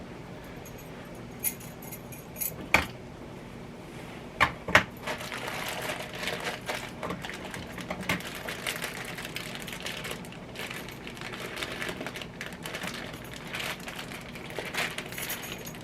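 Kitchen prep sounds: a few sharp clinks and knocks of utensils and dishes in the first five seconds, then a long run of rapid light tapping and scraping.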